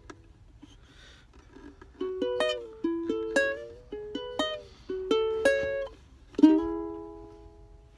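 Solo acoustic plucked string instrument playing an instrumental ending. After a short pause, a run of picked notes and chords comes in, then one last strummed chord about six and a half seconds in that rings out and fades.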